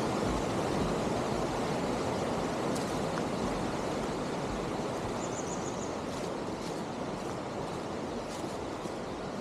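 Mountain stream rushing through a rocky gorge, a steady hiss of flowing water that grows slightly fainter. About five seconds in, a short high trill of five quick notes.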